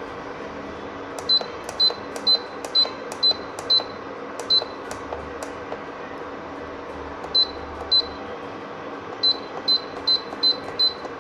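Induction cooker control panel beeping as its keys are pressed: fourteen short, high, identical beeps in three runs of seven, two and five, over a steady hum.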